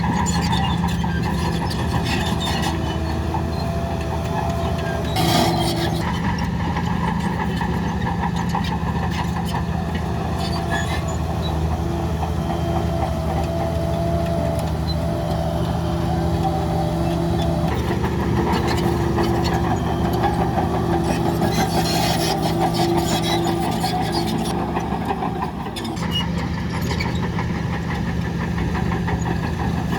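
Heavy diesel engine of earth-moving machinery running steadily, with a brief knock about five seconds in.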